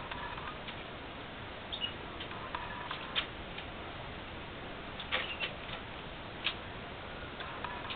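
Red factor canaries in a cage making scattered short chirps and sharp clicks, a few seconds apart, over a steady hiss.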